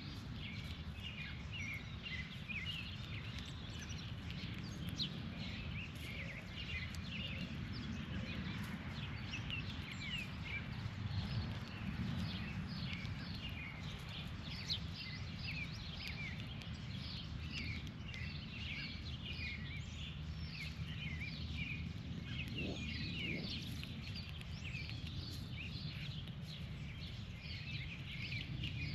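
Many small birds chirping, dense short calls overlapping continuously, over a steady low rumble.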